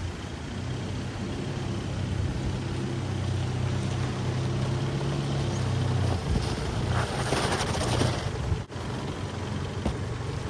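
A four-wheel-drive's engine running at low, steady revs as it crawls over rocks, with a louder rushing noise for a second or two about seven seconds in.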